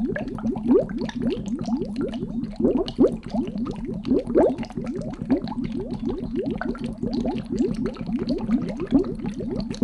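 Water bubbling and gurgling: a steady stream of many short, overlapping rising blips.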